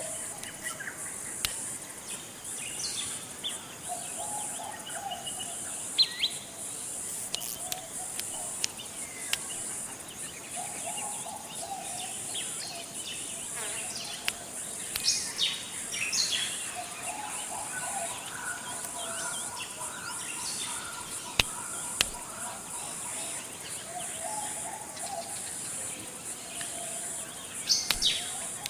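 Forest ambience: a steady high-pitched insect drone under scattered bird chirps and calls, with a low call repeating every few seconds and a few brief clicks.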